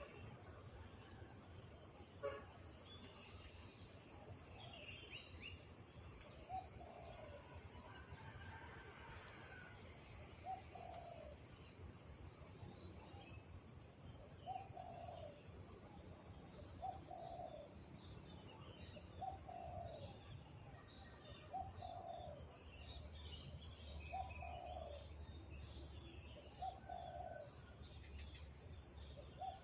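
Rural morning birdsong: one bird gives a short, low call over and over, about every two seconds, while other birds chirp higher up, over a steady high buzz of insects.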